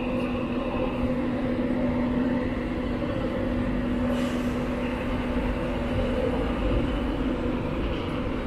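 LNER InterCity 225 set, Mk4 coaches hauled by a Class 91 electric locomotive, pulling slowly out along the platform. Its rumble carries a steady hum throughout, with a short hiss of air about four seconds in.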